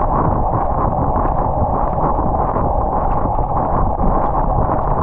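Steady wind rumble on a bicycle-mounted action camera's microphone while riding, mixed with road noise.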